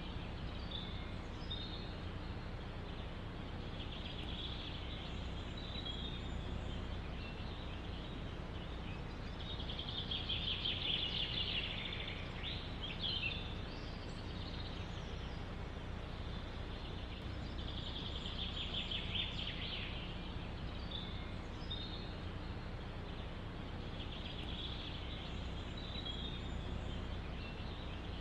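Small songbirds singing in a forest: a rapid trilled song phrase of about two seconds, repeated roughly every seven or eight seconds, with a few short chirps between. Under it runs a steady low rumble of wind.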